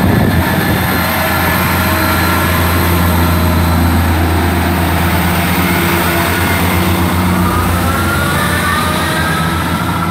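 Class 158 diesel multiple unit pulling away from the platform, its underfloor diesel engines running hard under load. Near the end the engine note rises as the train gathers speed.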